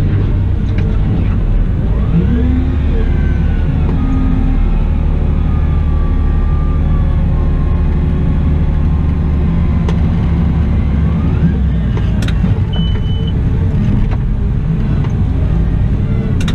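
Cat 972M XE wheel loader at work: a steady low engine drone with whines that rise and fall, a couple of sharp clicks, and a short high beep a little past the middle.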